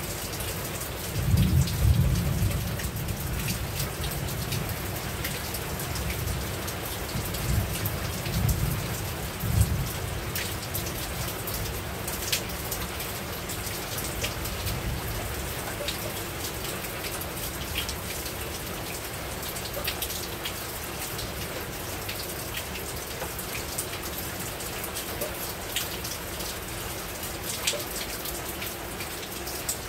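Steady rain falling on a roof: an even hiss with individual drops ticking through it. Low thunder rumbles swell a few times in the first ten seconds or so, then die away.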